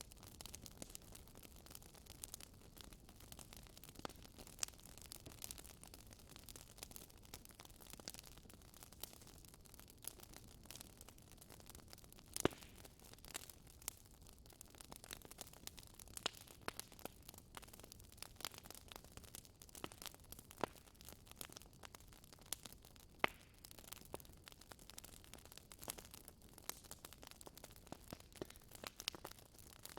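Fireplace fire crackling quietly: a soft steady hiss with irregular small pops and a few louder snaps.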